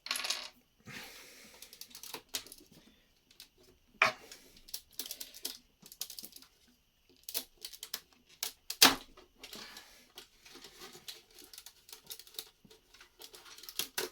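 Lego bricks and plates being pulled apart and handled: irregular sharp plastic clicks and clatter, with the loudest snaps about four seconds in and just before nine seconds.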